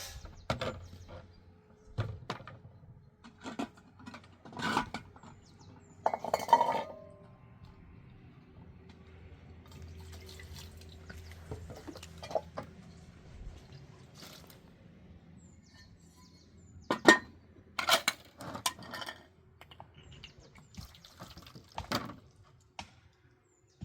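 Scattered knocks, clinks and handling noises of household work, the loudest about six and seventeen seconds in. A faint low steady hum runs underneath until near the end.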